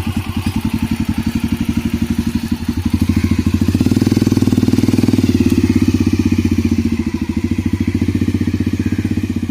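Motorcycle engine running with a steady, rapid exhaust beat. It picks up and grows louder about three and a half seconds in, then eases back toward the end.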